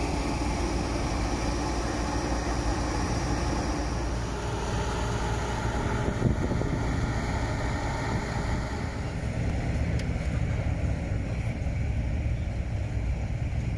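Engines of show cars driving slowly past one after another, a steady low exhaust rumble that changes character as one car gives way to the next.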